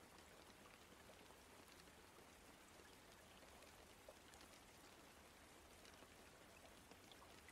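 Faint, steady rain playing as a background bed, with scattered soft drop ticks.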